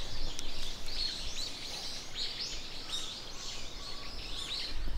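Small birds chirping and twittering, many short high calls in quick succession, over a low rumble of wind on the microphone.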